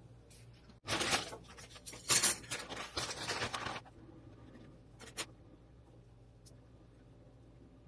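Rustling and scraping of things being handled at a table, in a run of uneven bursts for about three seconds, then two short clicks about five seconds in.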